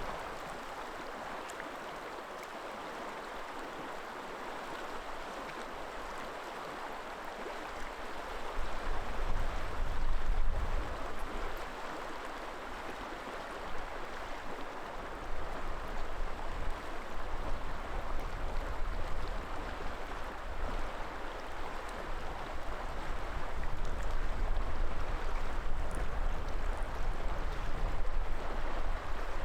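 River water flowing steadily, a continuous rushing hiss. From about eight seconds in, wind gusts buffet the microphone in low rumbles that come and go.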